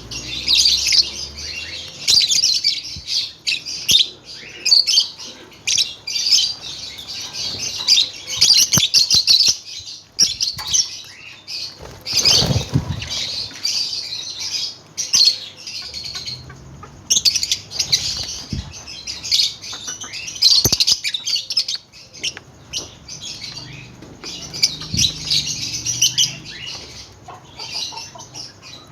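Many lovebirds chattering: a dense, nonstop stream of rapid, high-pitched chirps and squeaks, with a few short lulls. About twelve seconds in there is a brief, lower rustle.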